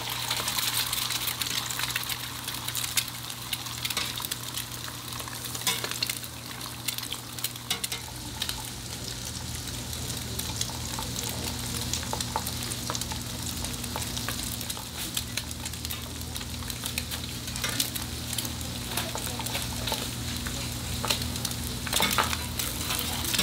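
Hamburger patties frying, a continuous sizzle and crackle with scattered sharp clicks, over a steady low hum.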